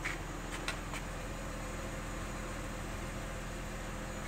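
2005 Saturn Vue's 3.5-litre V6 engine idling steadily. Two light clicks come in the first second.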